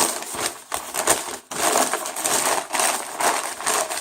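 Paper takeout bag rustling and crinkling, handled and rummaged through in quick irregular crackles.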